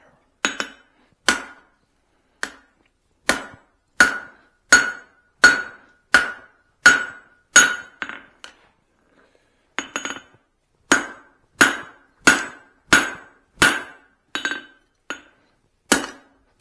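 Blacksmith's hand hammer striking a hot steel hammer-head blank over the anvil's horn, shaping the cheeks of a cross peen. There are steady blows at about one and a half a second, each with a short metallic ring, and a brief pause about halfway through.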